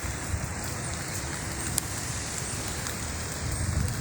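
Steady rain falling, an even hiss with scattered sharp drop ticks, over a low rumble that swells near the end.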